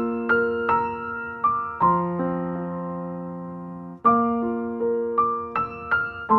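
Background piano music: notes struck about two a second, with a chord left to ring for about two seconds in the middle.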